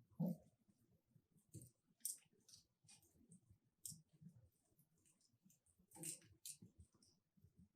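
Logs burning in a wood fireplace, crackling faintly with irregular pops and snaps. The sharpest pop comes just after the start, and a small cluster of snaps comes about six seconds in.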